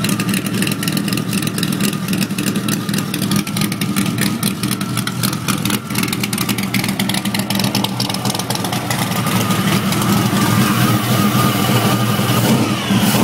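Supercharged V8 of a C3 Corvette with a B&M 144 blower, running steadily at idle through side pipes with Hooker Max Flow inserts. Over the last few seconds a thin supercharger whine becomes more prominent over the exhaust.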